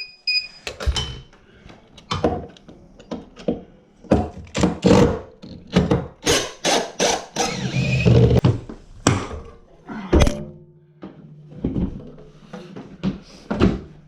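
Irregular thuds and knocks from stairlift parts being handled and moved during a removal, some in quick runs. A few rapid high beeps sound at the very start, and a low steady hum comes in near the end.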